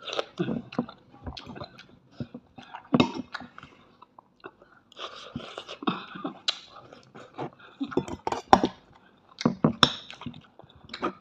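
A person chewing and eating food close to the microphone, with irregular short sharp clicks of a spoon and fork on a plate.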